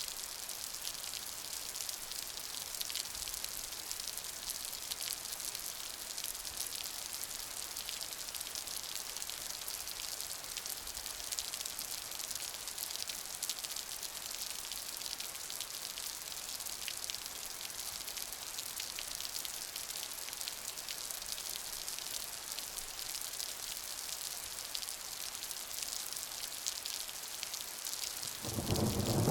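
Steady rain, a dense hiss of drops pattering on a surface. Just before the end a loud low rumble of thunder rolls in.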